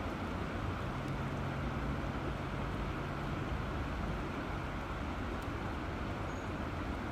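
River water flowing steadily, a continuous rushing with a deep low rumble.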